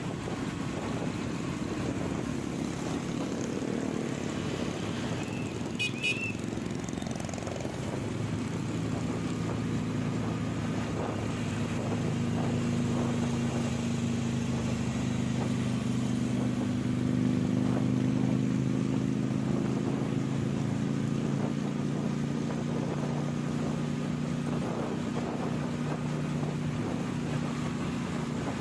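Motorcycle engine running steadily on the move, its note a little louder in the middle, with a brief high beep about six seconds in.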